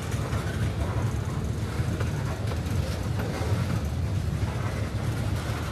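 Freight cars of a slow manifest train rolling past on the rails: a steady low rumble of wheels on track.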